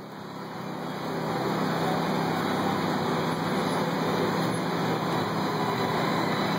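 Lamborghini Gallardo's V10 engine running at low revs as the car creeps slowly forward: a steady low drone that swells over the first second, then holds.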